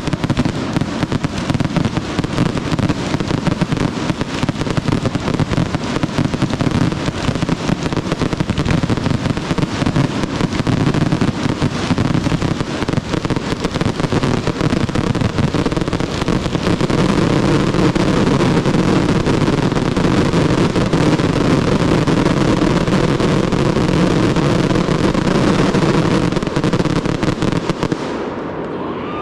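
Consumer fireworks finale barrage: a dense, continuous run of overlapping shots, bursts and crackle that grows thicker through the second half and stops abruptly about a second before the end.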